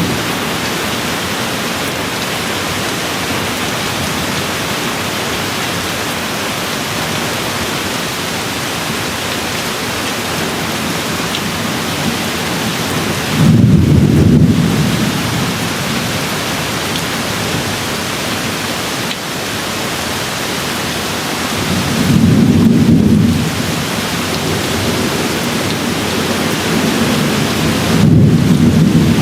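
Steady rain hissing, with three brief low rumbles of thunder swelling up about a third of the way in, past the middle and near the end.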